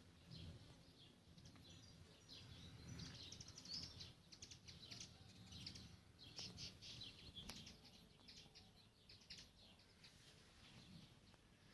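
Faint small-bird chirping outdoors, with quick runs of high chirps twice in the middle, over a faint low rumble.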